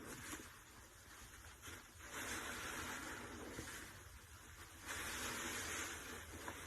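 A sponge soaked with soapy detergent water is squeezed twice, foamy water squishing out. Each squeeze lasts about a second and a half, the first about two seconds in and the second about five seconds in.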